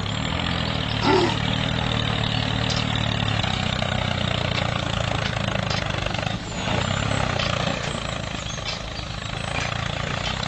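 Mini tractor's motor running steadily with a low, even hum, with a short sharp sound about a second in.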